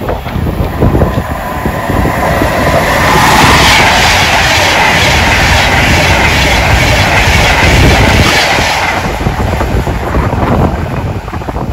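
A train passing through at speed: a loud rush of noise with rapid wheel clatter, building over a couple of seconds, loudest mid-way, then fading away. Wind buffets the microphone throughout.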